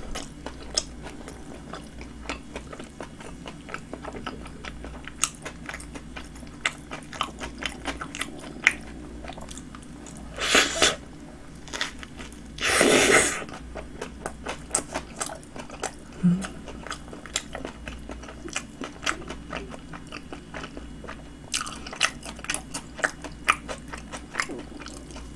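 Close-miked chewing of a toasted flatbread Subway roast beef sandwich, with many wet mouth clicks. Two louder crunching bites come about ten and thirteen seconds in.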